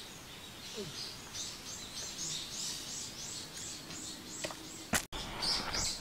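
Forest birdsong: a bird repeats a short high note about three times a second for a few seconds, over a faint outdoor background, with a sharp click about five seconds in.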